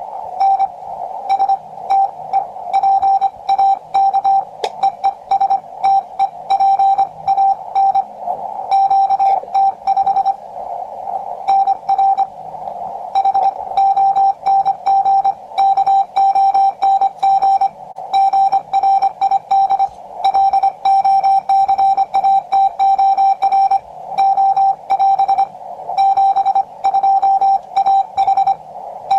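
Morse code from a QCX-20 shortwave transceiver: a single steady beep keyed on and off in quick dots and dashes, over the hiss of the receiver's narrow CW filter that stays between the characters.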